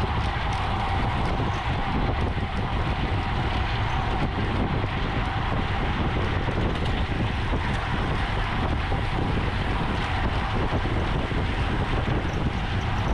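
Steady wind rushing over the microphone of a camera moving at bicycle racing speed, with no sudden events.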